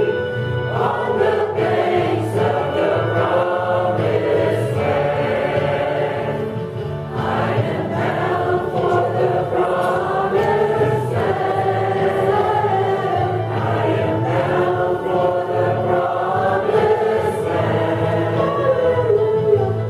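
A group of voices singing a gospel hymn together, with sustained, wavering sung notes.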